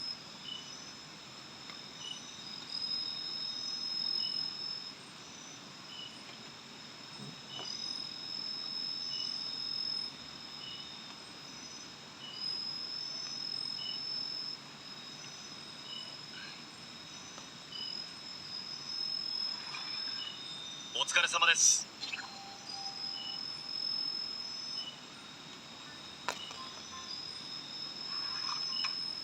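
Night insects trilling in the forest: a high, steady trill that comes and goes in long stretches of about two seconds, with a fainter chirp repeating about once a second. About three quarters of the way through, a short loud burst breaks in over the insects, from an unseen source.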